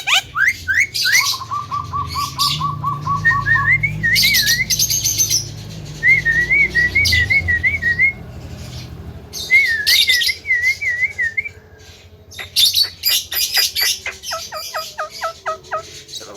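Male Javan myna (jalak kebo) singing: a fast run of repeated short notes, wavering whistled phrases broken by harsh scratchy chirps, and a quick rattling series near the end.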